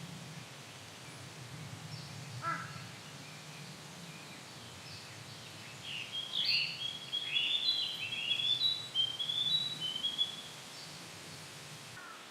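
Narcissus flycatcher singing one phrase of varied, clear whistled notes, starting about six seconds in and lasting about four seconds. A crow caws once about two and a half seconds in, over a steady low background hum.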